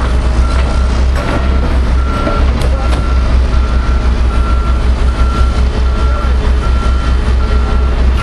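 Backup alarm on heavy earthmoving equipment beeping steadily, a little more than once a second, over the loud, low rumble of a diesel engine working.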